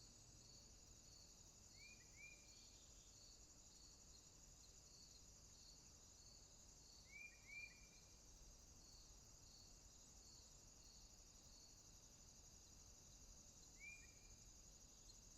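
Faint night jungle ambience of insects: a steady high trill with a slower, evenly pulsing chirp beneath it, about one and a half a second. Short upswept calls come in pairs about two and seven seconds in, and once more near the end.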